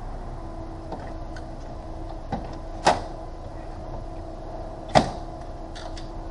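Two sharp knocks about two seconds apart, with a few lighter clicks, over a steady hum.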